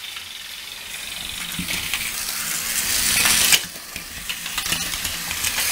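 Battery-powered toy train engines running on plastic track: small electric motors whirring under a rattling clatter of wheels and cars, growing louder, with a brief louder rattle about three seconds in.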